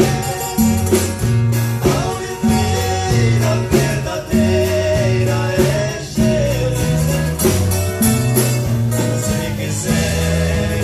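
Live Christian gospel music: a band with guitar, a walking bass line and percussion playing a steady beat, with a sung melody over it.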